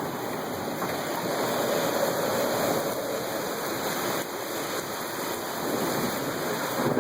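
Heavy rain driven by squally wind: a steady rushing noise that swells a little in the middle and eases again.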